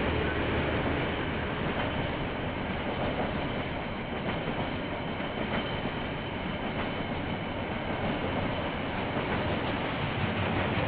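KiwiRail train running past on the line, a steady continuous noise of wheels on the rails, heard through a security camera's microphone.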